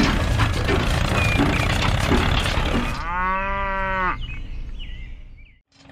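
A rattling, clicking mechanical noise, then about three seconds in a cow moos once, a steady call of about a second; the sound then fades out.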